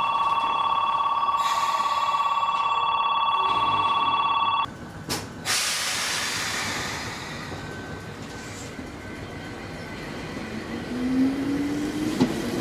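A station departure bell rings steadily for about four and a half seconds and stops. The doors of an Omi Railway 820 series electric train then close with a knock and a hiss of air. Near the end the train starts off, its resistance-controlled traction motors giving a rising whine.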